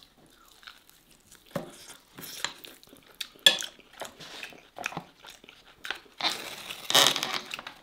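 Close-miked chewing of a mouthful of steak, with short wet mouth sounds. About six seconds in comes a longer, louder papery rustle as the lid of an instant noodle cup is peeled open.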